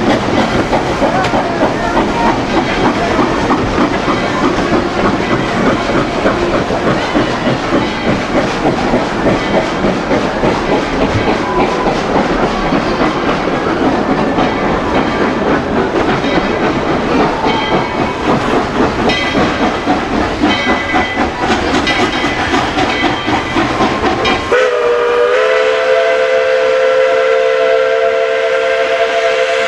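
Narrow-gauge steam train running with a dense, busy clatter. Near the end a steam whistle starts a long, steady chord of several tones.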